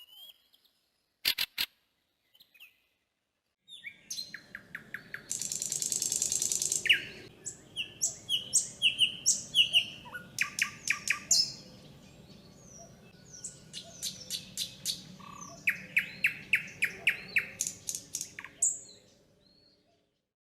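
Birds chirping and singing: rapid repeated chirps and trills in several different phrases, starting about four seconds in and stopping shortly before the end. A few short clicks come first.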